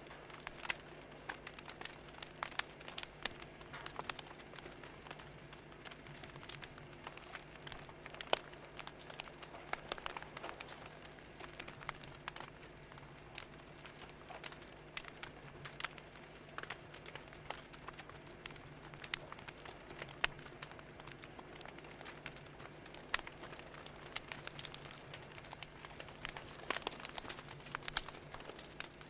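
Wood fire crackling: irregular sharp pops and snaps, some close together, over a faint steady background hum.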